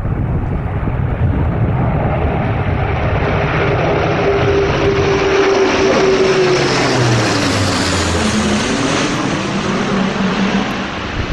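Airbus A400M's four turboprop engines passing low: a steady propeller drone that grows louder and drops sharply in pitch as the aircraft goes by, about seven seconds in.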